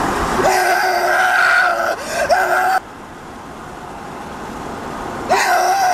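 A person's voice making a loud, flat, nasal 'eeeeeh' screech, the 'most annoying sound in the world' impression. It is held for about two seconds, breaks briefly, resumes for a moment, and stops just under three seconds in. A second long screech starts about five seconds in.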